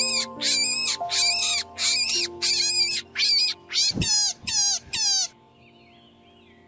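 Rabbit squealing: a quick series of short, high-pitched squeaks, about two a second, the last few falling in pitch, stopping about five seconds in. Soft background music with long held notes plays underneath.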